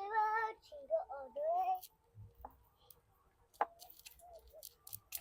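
Boiled potatoes being mashed by hand, with soft squishing and a few light clicks and knocks. A voice sounds briefly in the first two seconds.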